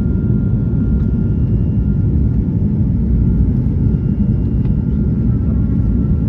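Steady low rumble inside the cabin of an Airbus A220-300: engine and airflow noise.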